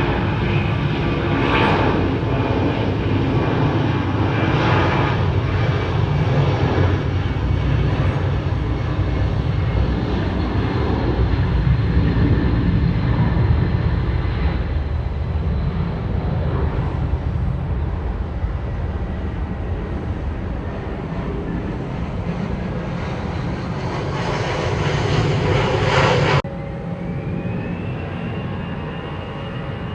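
Jet airliner engines running loud and steady, a roar with several whining tones over it. About 26 seconds in the sound cuts off abruptly to a quieter engine sound with a whine that rises in pitch.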